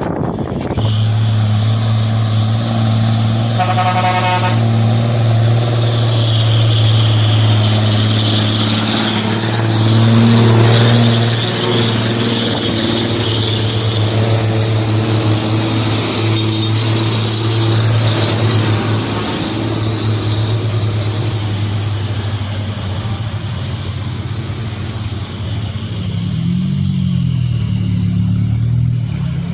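Heavy truck diesel engine running with a steady low drone. A short horn toot sounds about four seconds in, and the engine note wavers up and down near the end.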